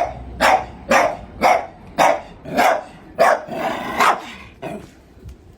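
A dog barking in a steady run of about nine loud barks, roughly two a second, the last one fainter, then stopping.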